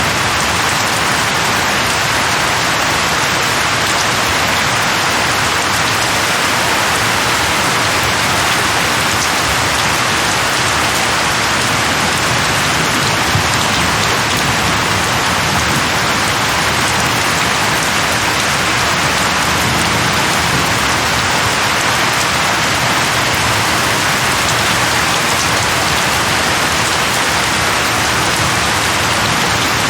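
Steady heavy rain falling on a surface, an even hiss that holds constant throughout.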